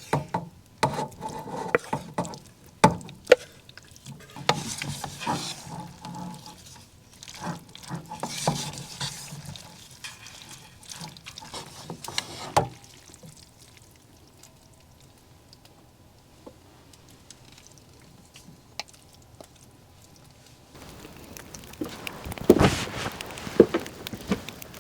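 Cooking sounds: a utensil stirring and scraping in a pan or pot, with repeated clinks and knocks. They are busiest in the first half and die down about halfway, with a few more knocks near the end.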